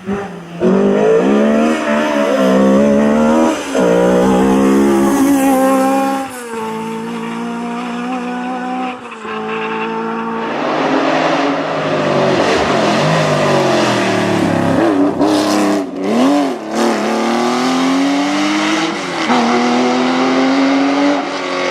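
Historic rally car engines at full throttle, the engine note climbing and dropping again and again with gear changes and lifts. About ten seconds in the sound switches abruptly to another car, with more noise under the engine note.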